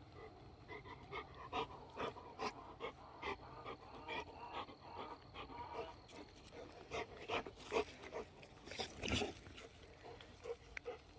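Cane Corso puppy panting in short, irregular puffs, louder for a moment about eight to nine seconds in.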